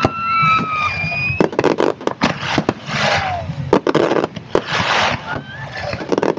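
Fireworks display in a heavy barrage: a rapid run of shell bursts and reports, with swells of crackling. Whistling tones glide near the start.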